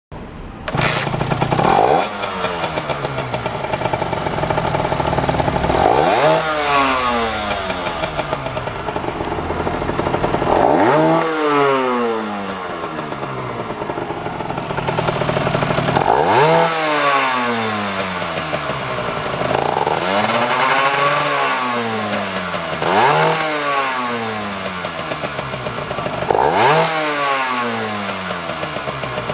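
Honda NS-1's 49cc two-stroke single-cylinder engine (AC08E) running and being revved about seven times, each blip rising in pitch and sinking back to idle, showing the engine runs.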